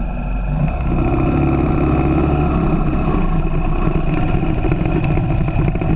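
A motorcycle engine running loudly and steadily.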